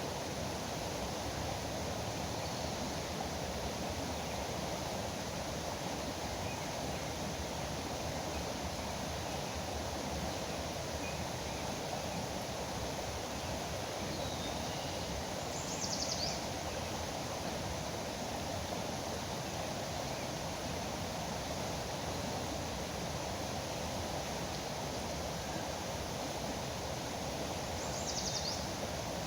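Steady rush of flowing river water, with two brief high-pitched bird calls, one about halfway through and one near the end.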